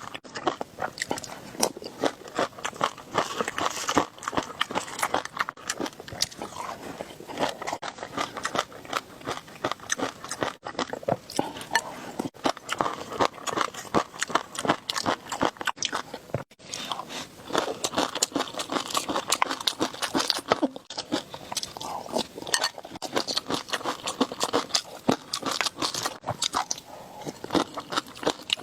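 Close-miked ASMR eating: a person chewing and biting food, with a dense, irregular run of crunches and wet mouth clicks.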